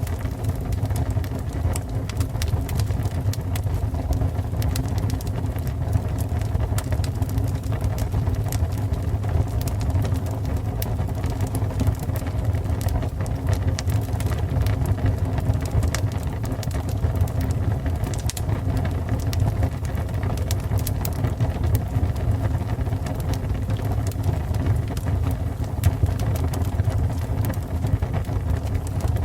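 Fire burning: a steady low rumble with frequent sharp crackles and pops scattered throughout.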